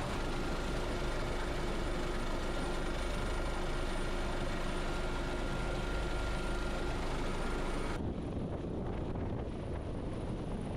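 Rescue helicopter running overhead: a steady engine and rotor noise with a high turbine whine. About eight seconds in the sound changes abruptly to a duller rumble with wind on the microphone.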